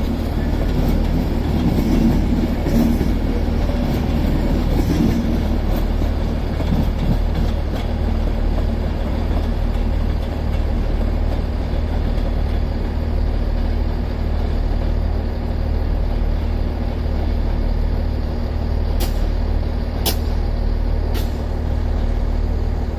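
A train at a station platform: a steady low rumble with a constant hum, and three short sharp clicks near the end.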